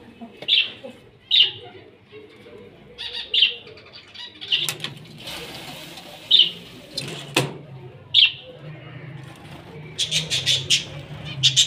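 Small aviary birds chirping: single short high chirps every second or two, then a quick run of chirps near the end. There is a sharp click about seven seconds in and a faint low hum underneath.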